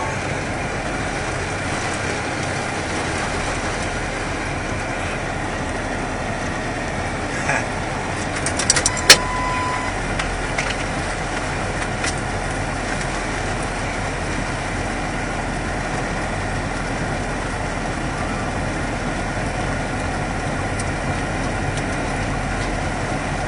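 Steady running noise of a truck heard from inside its cab. About nine seconds in come a few sharp clicks and a short beep.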